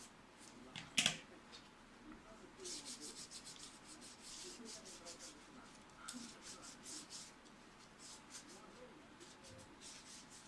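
Faint, rapid rubbing strokes of hand-cleaning a PC power supply part, in runs, with one sharp click about a second in.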